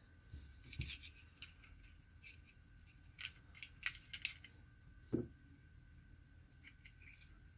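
Small metal parts of an Esbit coffee maker and stove clinking and clattering as they are handled and taken apart, with a quick run of clinks about three to four seconds in and a dull knock a second later.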